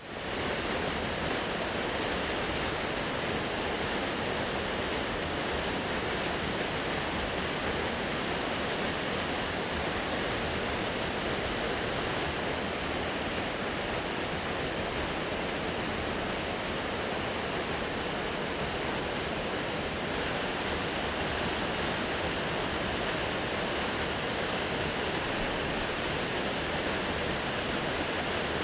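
Waterfall: water pouring down in a steady, unbroken rush, fading in at the very start.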